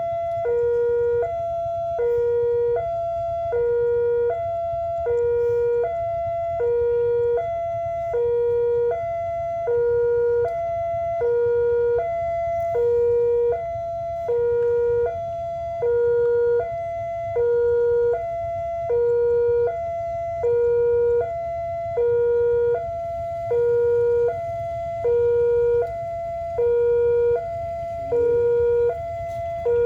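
Railway two-tone electronic warning alarm alternating a low and a high tone, each held about a second, repeating steadily: the signal that a train is approaching. A low steady rumble runs underneath.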